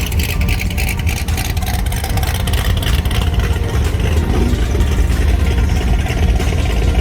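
Car engines running, loud, with a deep steady rumble.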